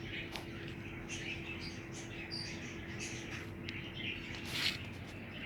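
Small birds chirping in short, scattered calls, with one louder chirp near the end, over a faint steady hum that stops about two-thirds of the way through.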